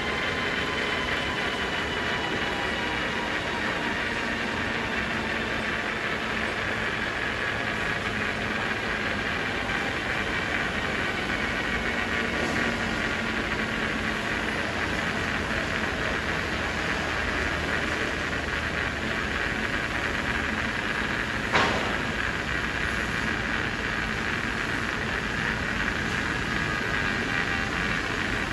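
Sawmill machinery running steadily, with a faint high whine over the noise. A single sharp knock about three-quarters of the way through, like timber striking metal.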